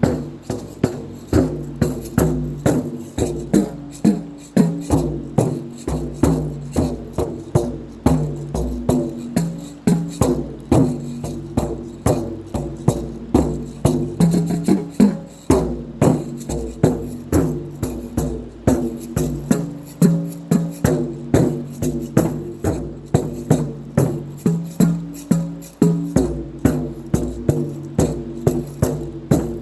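Three pitched drums played in a steady rhythm of about two strokes a second, with maracas shaking along.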